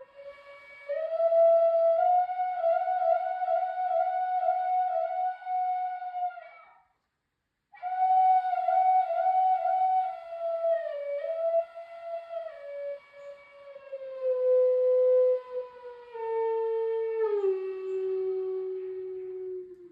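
Solo flute playing a slow melody in two phrases of long held, slightly wavering notes, with a short breath-like pause between them; the second phrase steps downward to a low sustained note.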